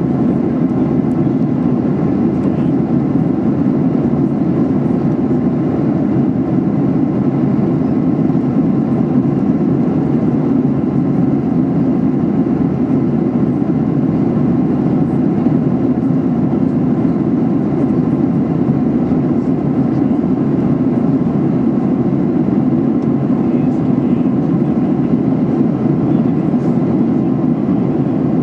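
Steady in-flight cabin noise of a Boeing 737-800, a low, even rush of airflow and CFM56 engine drone heard from a window seat, with no changes.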